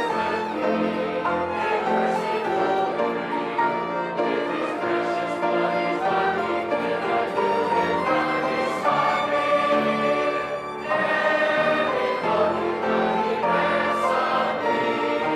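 Many voices singing a hymn together with instrumental accompaniment.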